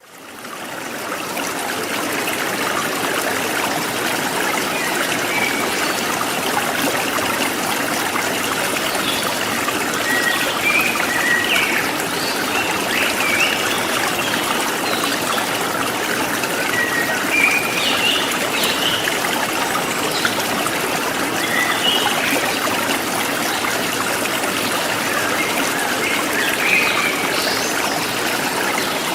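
River water flowing and trickling steadily over stones, fading in over the first second or two. Short high chirps sound now and then above the water.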